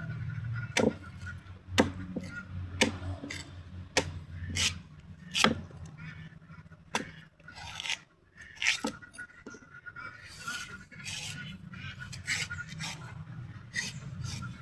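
A blade chopping into the husk of a young coconut: sharp strikes about once a second for the first nine seconds, then softer scraping and rubbing strokes. A steady low hum runs underneath.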